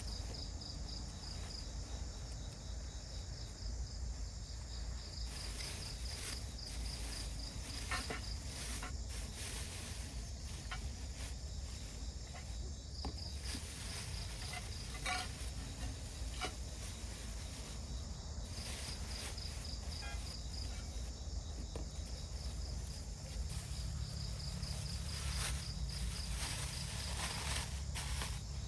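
Insects chirping in bouts of a rapid, high-pitched pulsed trill every few seconds, with scattered light clicks and rustles over a steady low rumble.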